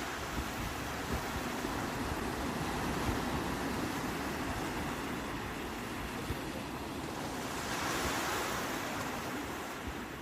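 Sea waves washing onto the shore in a continuous rush, with one wave swelling louder and hissing about eight seconds in. Some wind buffets the microphone.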